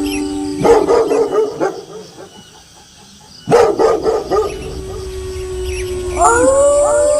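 Wolves howling, several voices at once, broken by a short burst of dog barking about a second in and another at about three and a half seconds. One long howl holds after the second burst, and several new howls rise together near the end.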